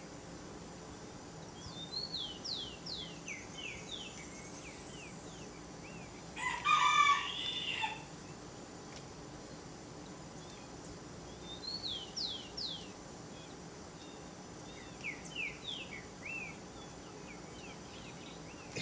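Birdsong outdoors: a songbird sings short phrases of quick, sweeping whistled notes three times. About six and a half seconds in, a rooster crows once for about a second and a half; this is the loudest sound.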